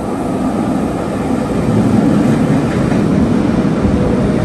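RER commuter train running, a steady rumble that grows louder about two seconds in.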